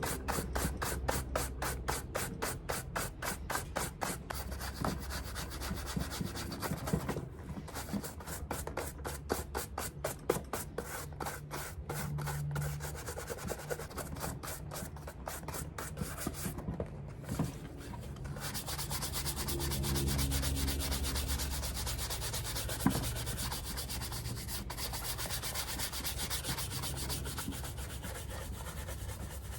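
Fast back-and-forth scrubbing strokes on the leather of a Paraboot Michael shoe during cleaning, about six strokes a second at first, turning into denser, more continuous rubbing later.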